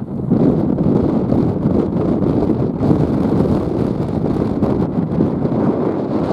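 Gusty wind buffeting the microphone, a loud, steady rumble of noise without any tone.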